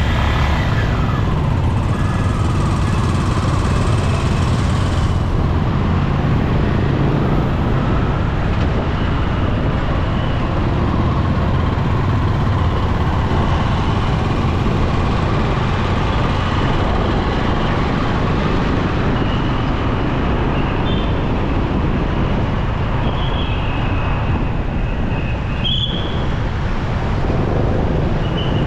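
Steady road noise of a motorcycle ride through busy city traffic: the rider's own motorcycle and the surrounding vehicles, with a dense low rumble and a few brief high-pitched tones in the second half.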